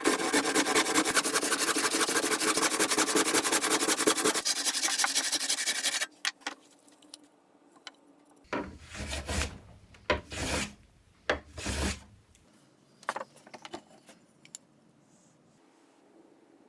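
Hand saw ripping a board along the grain: a fast, steady rasping that stops about six seconds in. A few short knocks and handling noises of wood follow.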